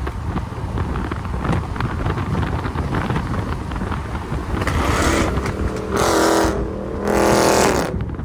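Vehicle engine idling with a rough low rumble, then revved twice in the last few seconds, each rev held briefly at a steady pitch.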